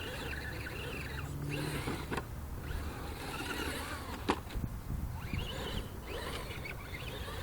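RC crawler's brushed electric motor and gears whining, the pitch rising and falling as the throttle is worked. Two sharp clicks about two and four seconds in.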